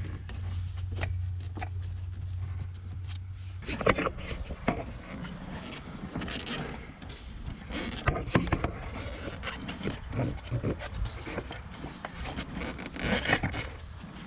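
Ignition coil being worked back down into a spark plug well on a 5.4 L three-valve Ford V8: rubbing and scraping with scattered clicks and knocks. A low steady hum runs under it for the first four seconds or so.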